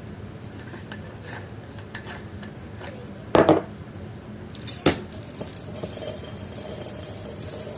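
A glass salt grinder being handled and opened for filling: a loud knock about three seconds in, a sharp click, then a couple of seconds of clinking and rattling.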